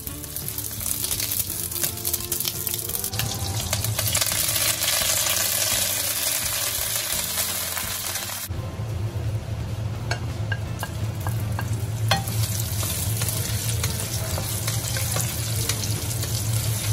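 Butter and oil sizzling in a hot nonstick wok as curry leaves fry and a wooden spatula stirs them. The sizzle drops away abruptly about halfway through, then comes back, with a few sharp clicks.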